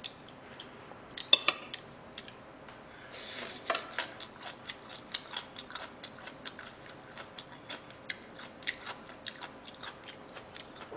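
Close-miked chewing with many small, sharp mouth clicks as someone eats green-onion kimchi, with a couple of louder clicks about a second and a half in.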